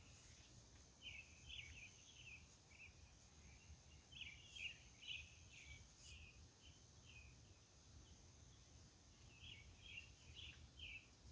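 Faint night-time outdoor ambience: a bird singing three short runs of quick chirpy notes, over a steady high insect trill and a low distant rumble.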